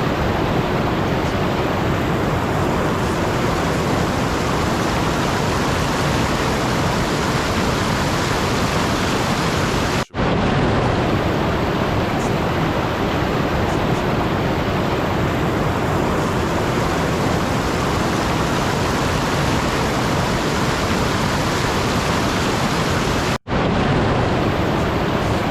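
Steady, even rushing noise spread across all pitches, with no tones or strokes in it, cutting out for a split second twice.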